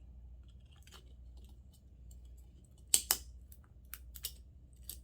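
Sharp clicks and snaps of a small hand tool working at a smoke detector's circuit board, with the loudest two close together about three seconds in and a few lighter ones after, over a steady low hum.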